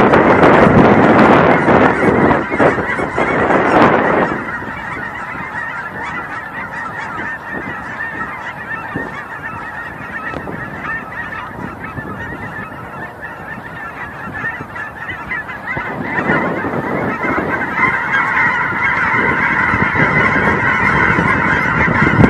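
A flock of geese honking. The calls are loud and dense for the first few seconds, drop to a fainter steady chorus, then build again over the last several seconds.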